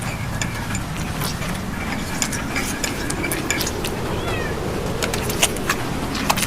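A cat meowing over a steady low background, with scattered light clicks and taps.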